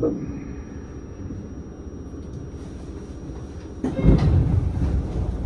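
Inside a train carriage: a steady low rumble, then a sudden, louder burst of noise about four seconds in that stays raised.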